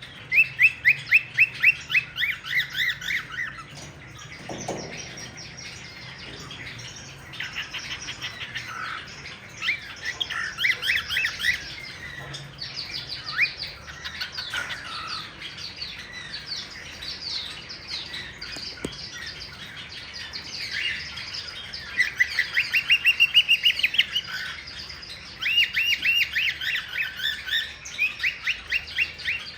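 Cockatiel calls: runs of rapid, repeated rising chirps, about five a second, in bursts of a few seconds, with scattered single whistles and squawks between.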